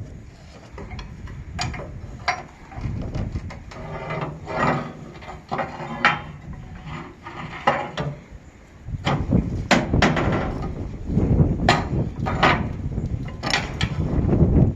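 Irregular knocks and clanks, about a dozen separate strikes, more frequent in the second half, as parts of a large produce chiller are worked loose during dismantling.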